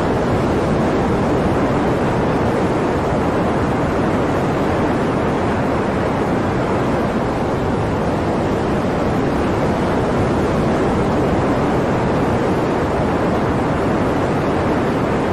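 Hurricane storm noise: a loud, steady rush of wind and surf that never lets up.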